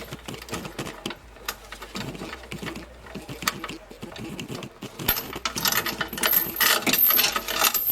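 Steel shop chain clinking and rattling as it is handled, the clinks thickening into a dense jingle in the last few seconds.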